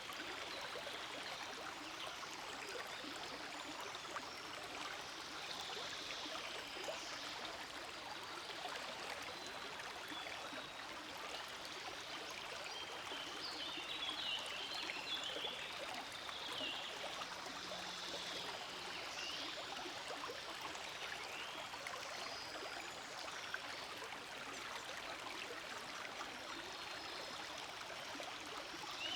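Forest stream flowing steadily, with a few brief high chirps now and then.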